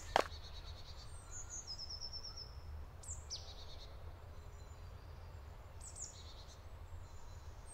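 Forest ambience: small songbirds chirping, with a quick run of high descending notes about a second in and single calls around three and six seconds, over a steady low rumble. One sharp crunch right at the start.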